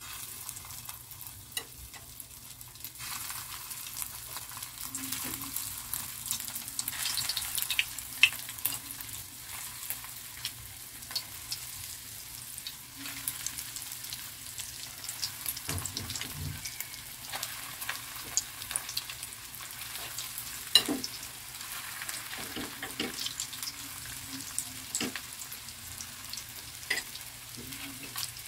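Breaded eggplant rolls deep-frying in hot oil in a wok: steady sizzling that grows louder about three seconds in as more pieces go into the oil, with scattered sharp crackles and a few louder clicks.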